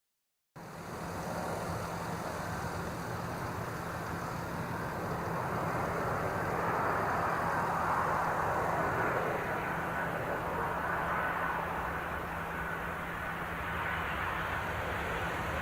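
Jet noise from a Boeing 737-700's CFM56-7B turbofans as the airliner approaches to land: a steady rumble with a faint high whine, starting abruptly about half a second in and swelling to its loudest around the middle.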